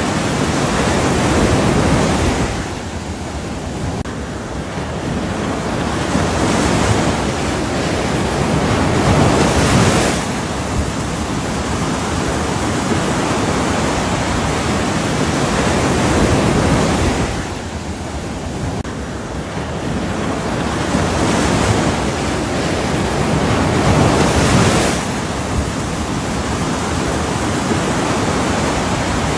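Ocean surf: a steady rush of waves that ebbs and swells, cresting twice about fifteen seconds apart.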